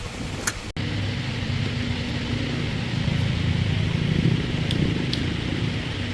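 A motor engine running steadily with a low drone that swells slightly in the middle, after the sound briefly cuts out under a second in. A few faint light ticks sit over it.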